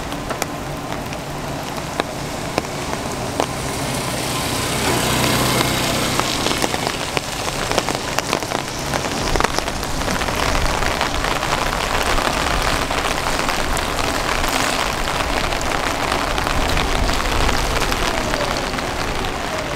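Steady heavy rain falling on wet pavement, with many individual drops ticking close by.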